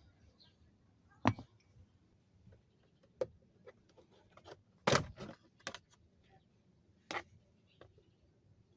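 Hand tools and parts being handled during a repair: a handful of separate clicks and knocks at irregular intervals, the loudest about five seconds in.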